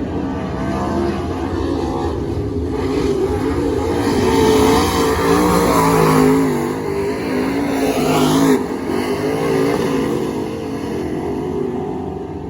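Race car engine running hard on track, its pitch wavering up and down with the throttle. It builds to its loudest in the middle, drops off suddenly about eight and a half seconds in, then eases away.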